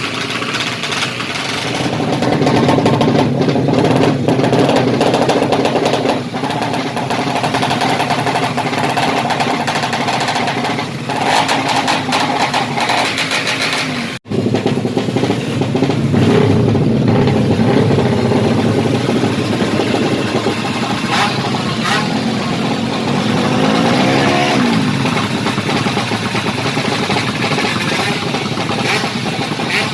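Yamaha MX King motorcycle's fuel-injected single-cylinder engine, bored up to 200cc and fitted with a racing exhaust, running loudly with pitch rising and falling a few times in the second half. It cuts out abruptly for a moment about halfway through.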